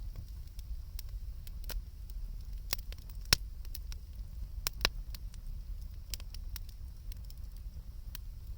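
Wood campfire crackling: scattered sharp pops and snaps at irregular intervals, one louder pop about a third of the way in, over a steady low rumble.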